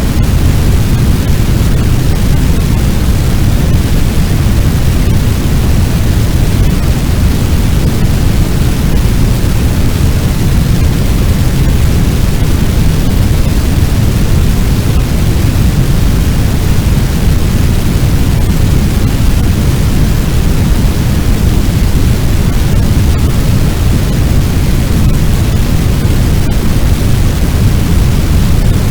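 Fire sound effect: a large blaze's steady, loud rush of noise, deepest in the low end, with a few faint crackles near the end.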